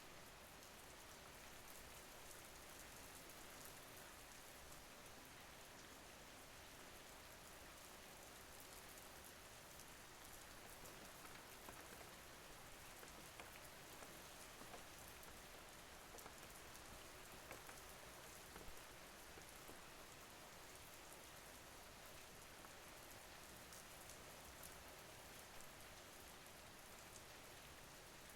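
Faint, steady rain falling, with scattered single drops ticking now and then.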